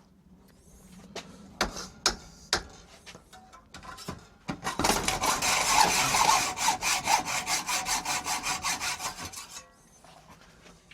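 A few sharp knocks, then about five seconds of quick back-and-forth rasping strokes from a hand tool scraped over metal, about six strokes a second.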